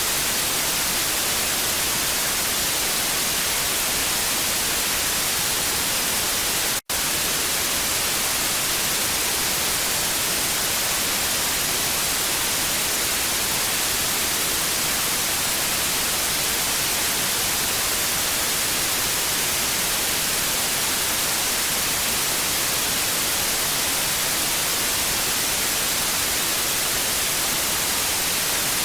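TV static: a steady, even hiss, strongest in the treble, with a split-second dropout to silence about seven seconds in.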